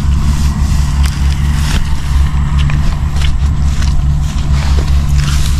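An engine running steadily at a low, even pitch, with brief rustling and scraping noises over it.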